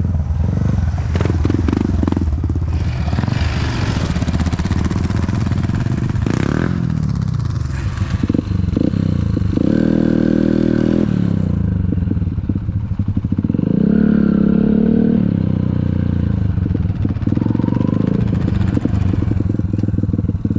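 Yamaha XTZ125 trail bike's single-cylinder four-stroke engine running under way, revving up in pitch twice, about halfway through and again a few seconds later, with a rattling clatter over rough ground.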